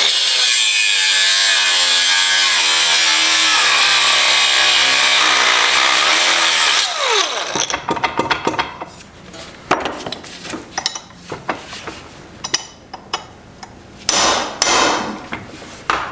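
Power cutoff tool cutting a slit into a stuck steel part in the transmission. It runs loud and steady for about seven seconds, its whine falls away as it spins down, and it cuts again briefly near the end. In between come scattered metallic clicks and taps.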